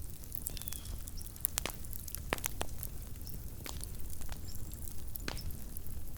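Small wood campfire crackling: irregular sharp pops and snaps, sometimes several close together, over a low steady rumble.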